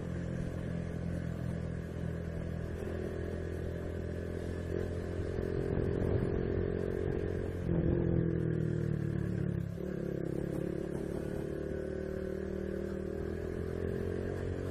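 Honda Biz 125's single-cylinder four-stroke engine running steadily under way. The engine note steps up about eight seconds in and dips briefly near ten seconds, with some clatter from the bike over a potholed road.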